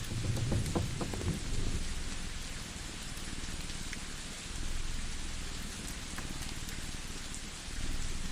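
Layered cosy-cabin ambience: a steady hiss of rain over a low rumble that swells and fades, with scattered small crackles. The rumble swells most strongly about a second in.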